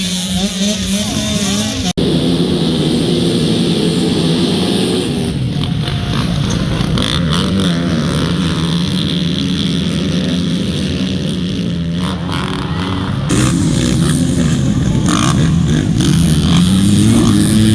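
Motocross motorcycle engines revving up and down as the bikes race, the pitch rising and falling continuously. The sound changes abruptly twice, about two seconds in and again about two thirds of the way through.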